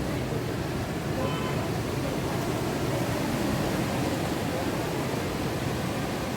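Steady rushing noise of a rough monsoon sea and strong wind, the waves blending into a continuous roar with wind buffeting the microphone.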